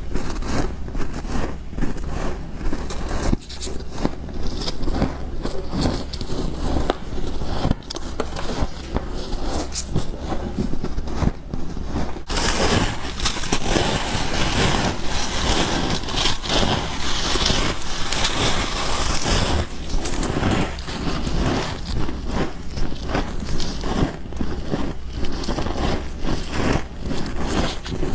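Frost being bitten and chewed close to the microphone: dense, continuous crunching and crackling. About twelve seconds in it suddenly turns louder and hissier, then settles back to the earlier crunching about twenty seconds in.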